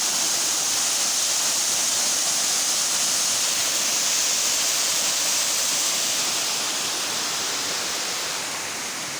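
Waterfall: a steady rush of falling water, growing a little quieter near the end.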